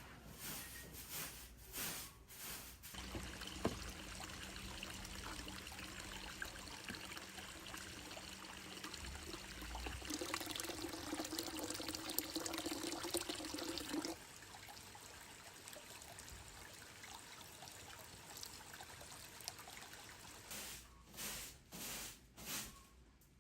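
Water trickling or pouring, a steady splashing hiss that grows louder for a few seconds past the middle and then drops off suddenly to a fainter trickle.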